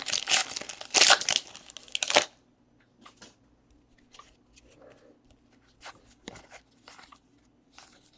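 A trading card pack's wrapper being torn open and crinkled for about two seconds, followed by faint scattered clicks of cards being handled.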